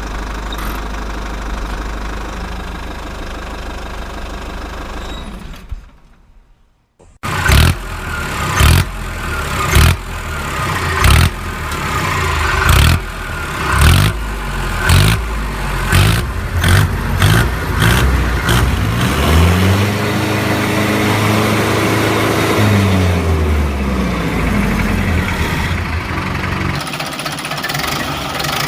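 Tractor diesel engine running steadily, cutting out about six seconds in, then coming back with heavy chugs that quicken, revving up and back down near the middle and settling into a steady run.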